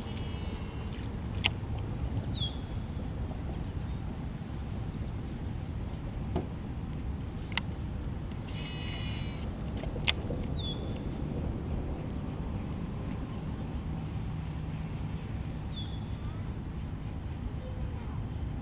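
Outdoor lake ambience: a steady low background noise with a constant thin high insect-like whine, short chirps of small birds or insects now and then, two brief rapid-ticking bursts, and a few sharp clicks.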